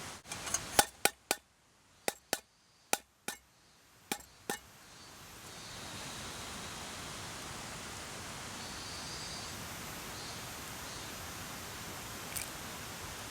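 About ten sharp clinks and taps, utensils knocking against dishes, in uneven pairs over the first few seconds. Then the steady rush of the mountain stream fades back in.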